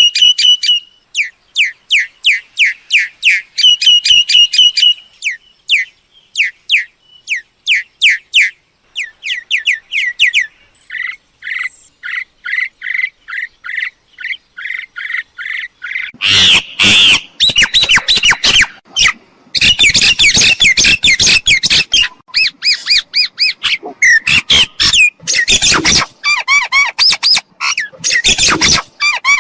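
Myna calls: a fast run of short, repeated whistled notes, then, from about halfway through, loud harsh squawking and chattering.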